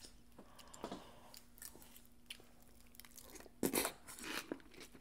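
Close-miked chewing of a large mouthful of loco moco with raw onion: scattered soft crunches and wet chewing, with a louder burst of crunching about three and a half seconds in.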